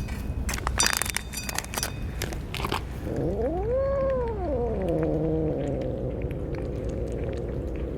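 A cat gives one long meow that rises and falls in pitch, trailing off into a drawn-out lower moan lasting several seconds. A few light clicks and rattles come before it.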